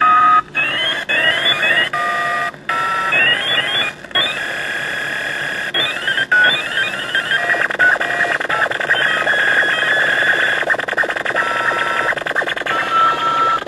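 KITT-style 'manual override' sound effect played from a small dashboard soundboard speaker: a long run of electronic computer tones, with quick repeated rising chirps, short steady beeps and noise underneath.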